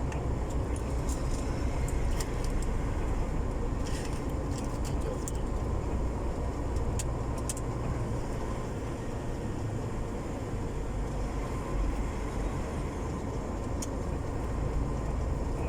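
Loaded semi-truck's engine running steadily under way, heard from inside the cab as a low rumble with road noise, with a few faint ticks.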